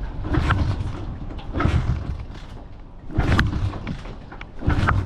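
A kick-start dirt bike being kicked over four times, about every second and a half, each stroke turning the engine over briefly without it catching. The engine won't start, which the owner puts down to fuel.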